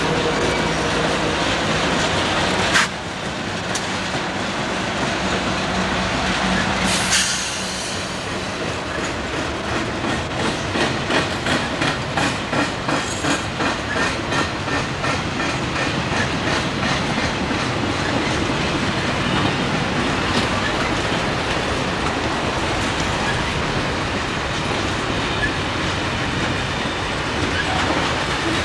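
Freight train rolling past. At first the steady hum of diesel locomotives is heard; after a few seconds it gives way to a steady rumble, with the car wheels clicking over rail joints in a quick, regular clickety-clack.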